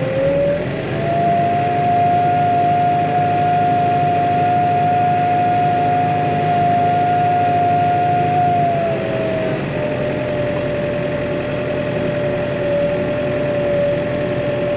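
Tractor engine revved up to higher, steady revs about a second in, with a strong whining tone, then eased back slightly around nine seconds in: revs raised to haul the loaded muck spreader through a muddy gateway.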